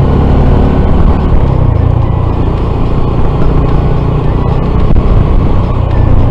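Honda CT125 single-cylinder engine, fitted with a 142 cc big bore kit, running steadily as the motorcycle rides along, mixed with wind noise on the microphone.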